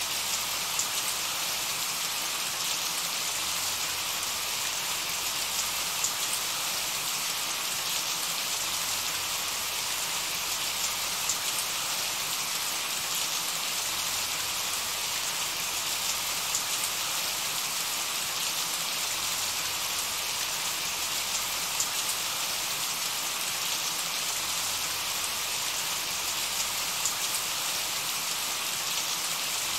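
Steady rain falling onto a puddle: an even hiss of drops hitting the water, with scattered single drops landing a little louder now and then.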